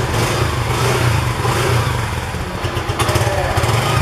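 A motorcycle engine running, its throttle being revved.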